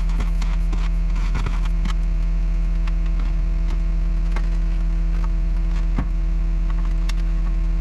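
Salt truck's engine and salt spreader running steadily, a constant low drone with a few fixed tones, with scattered sharp ticks and clicks over it.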